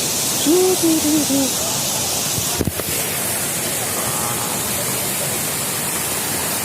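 Waterfall's steady rush of falling water. A person's voice comes in briefly about half a second in, and a single sharp knock comes near the middle.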